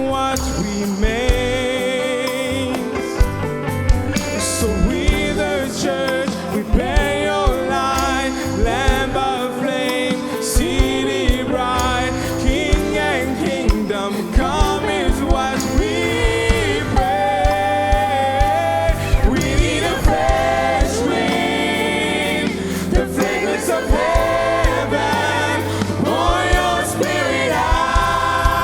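Gospel worship song: a choir of voices sings with vibrato over a band, with a steady drum beat and bass.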